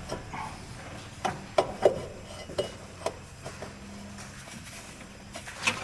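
Several light metallic clinks and knocks, spaced irregularly, as metal intake pipe sections are handled and test-fitted into their boots. The sharpest knocks come in a quick cluster about a second and a half in, and one more comes near the end.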